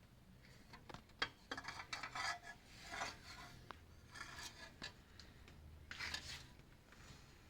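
Faint scraping and rubbing strokes, in several short spells, mixed with scattered light clicks and knocks.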